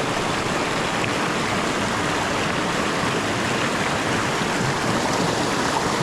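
Creek water rushing and splashing over rocks: a steady, unbroken rush.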